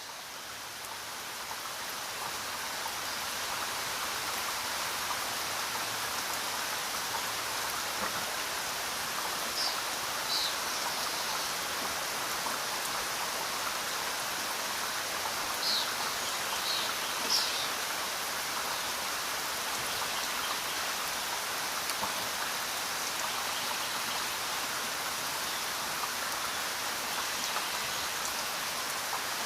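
Steady rain falling, fading in over the first few seconds and then holding even. A few short, high chirps come through the rain around the middle.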